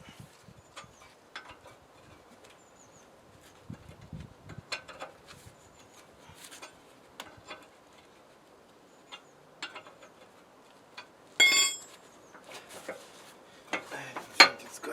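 Metal tools and parts being handled on a workbench: scattered clicks, knocks and clinks, with one loud ringing metal clang about eleven seconds in.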